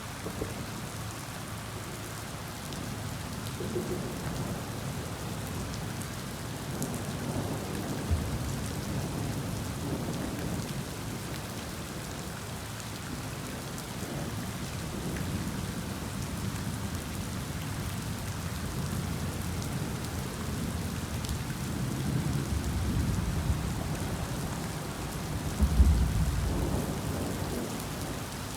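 Heavy rain on a vehicle, a steady hiss with low rumbling underneath, and a brief louder low thump near the end.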